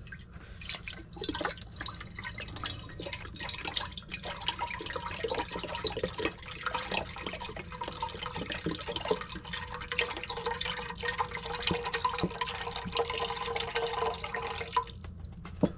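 Chicken broth being poured out of its container into a pot, a steady splashing, gurgling pour that stops about a second before the end.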